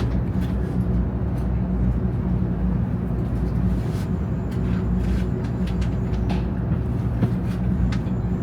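Shinkansen bullet train running: a steady low rumble with scattered light clicks and rattles.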